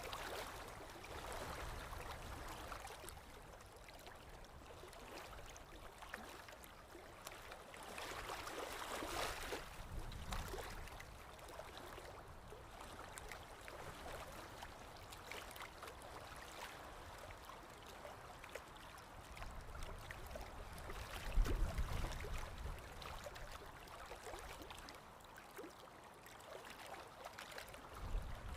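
Paintbrush working acrylic paint on a painting surface: faint, uneven scratchy swishes that swell and fade, with a low knock about three-quarters of the way through.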